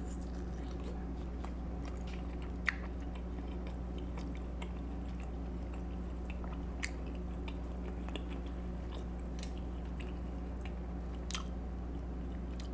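A person chewing food close to the microphone: small wet mouth clicks and smacks, with a few sharper clicks, over a steady low hum.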